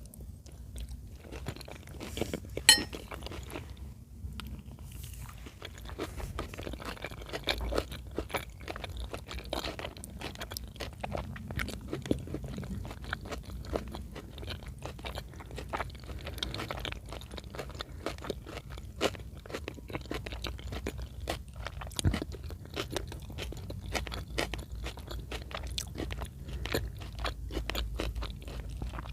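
Close-miked chewing of chicken in cream sauce: a steady run of small mouth clicks and soft crunches, with one sharper click about three seconds in.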